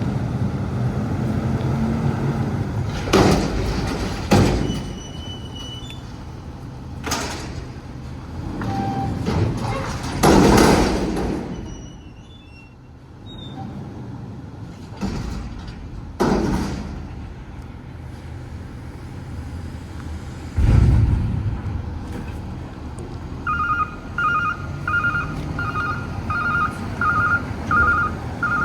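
Autocar front-load garbage truck running, with several loud bursts of hiss and bangs along the way. In the last few seconds its reversing beeper starts, beeping about twice a second.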